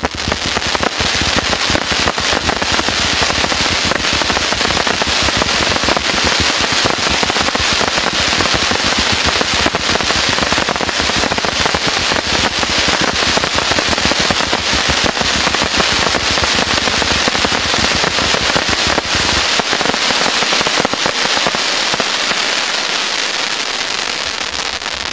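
A low-noise, 300-shot fan fireworks cake firing in a rapid, continuous stream of shots with dense crackling. The deeper thumps drop out a few seconds before the end, and the crackle eases off as the cake burns out.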